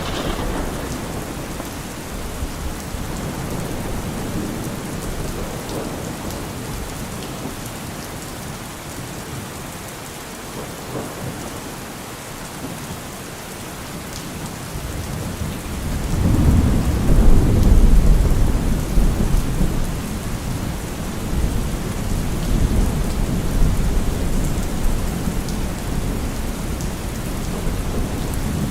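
Steady rain falling, with a long roll of thunder that builds about halfway through, peaks a couple of seconds later and rumbles on.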